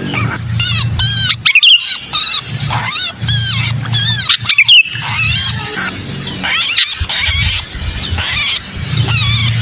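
Sooty-headed bulbul (kutilang) giving the agitated calls of a caught bird: quick, repeated arched notes in tight bursts with short breaks, over a steady low rumble. These are the 'kejepit' distress calls that draw other bulbuls in.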